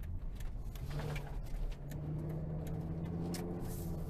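Washing machine starting its cycle after detergent is added: a steady motor hum that grows stronger about a second in, with a few light clicks.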